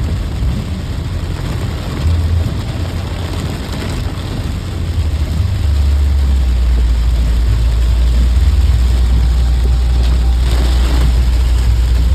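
Thunderstorm: a hiss of heavy rain over a deep, low rumble that swells about halfway through and then holds steady.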